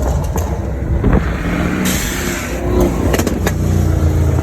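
Car engine running loudly in traffic, with a few sharp cracks about a second in and again around three seconds.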